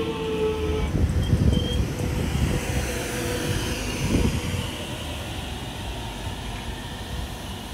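Electric suburban train at the station. Its motor whine falls slightly in pitch and stops about a second in, then low rumbling with a few thuds continues as the train moves.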